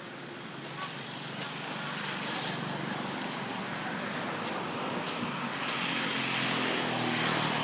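An engine running steadily, growing a little louder in the second half, with a few sharp knocks.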